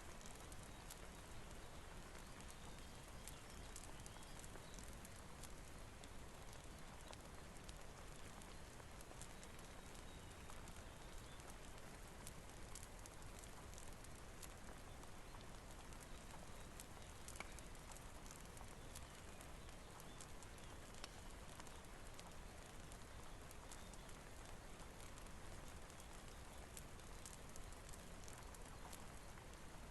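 Quiet, steady rain mixed with a crackling fireplace: a constant hiss dotted with many small sharp crackles and pops.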